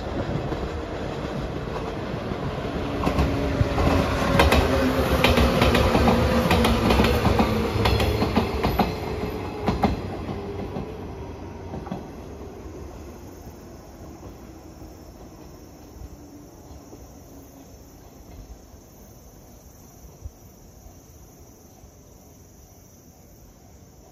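A JR 115-series electric train passes by. Its wheels click over the rail joints as it draws near, loudest about four to ten seconds in, then the sound fades steadily as it moves away.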